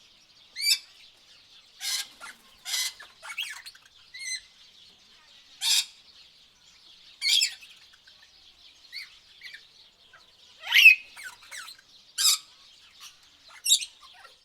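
Tropical birds calling: short, harsh squawks and chirps, a dozen or so at irregular intervals, over a faint steady high-pitched background.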